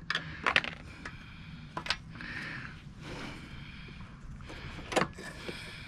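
Metal parts and tools clicking and scraping as a small engine is taken apart by hand, with a few sharp clinks: several near the start, one at about two seconds, and one near the end.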